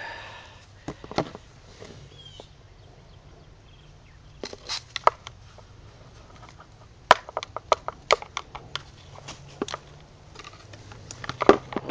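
Scattered sharp clicks and knocks, in small clusters, from handling the copper-pipe barrel of a small potato cannon and a potato.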